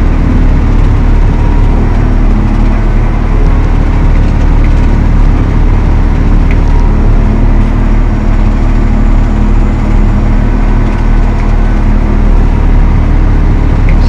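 Valtra T214 tractor's diesel engine running steadily under load, a loud continuous low drone with no change in pitch.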